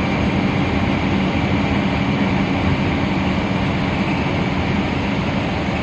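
Air-conditioned bus on the move, heard from on board: a steady drone of engine and road noise.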